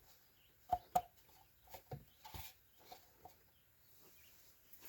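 A funnel being handled and fitted into the engine's oil filler neck: a few sharp clicks and knocks, the two loudest close together about a second in, then several lighter ones.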